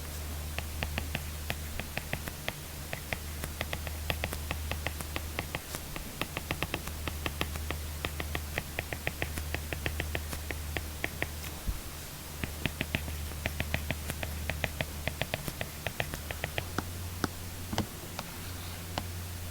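Apple Pencil writing on an iPad screen fitted with a paper-texture film: quick runs of small tip clicks and scratches as strokes are written, pausing briefly between words, over a steady low hum.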